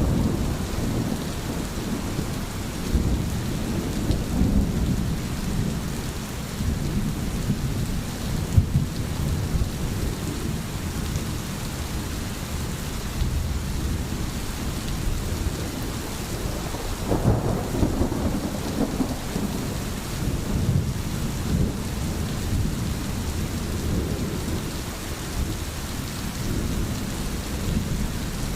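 Steady rain with low rolling rumbles of thunder, one swelling up about two-thirds of the way through.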